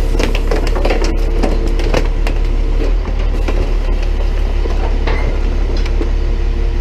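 Tow truck engine running steadily while its boom-mounted crusher presses down on trash in a can, with plastic and debris cracking and snapping in quick clusters in the first two seconds and again about five seconds in.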